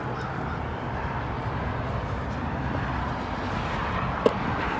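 Steady low rumble of wind buffeting the microphone, with a single sharp knock a little over four seconds in.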